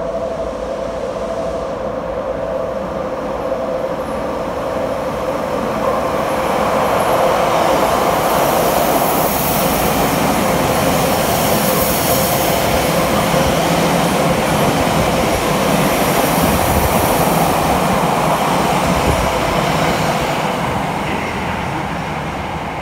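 An express electric train runs through an underground station platform without stopping. The rumble and wheel-on-rail noise build over the first several seconds and hold loud with a high hiss as the cars pass, then fade near the end.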